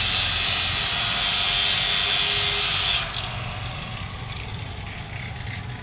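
A loud, steady hissing machine noise cuts off sharply about three seconds in, leaving a low engine rumble running on.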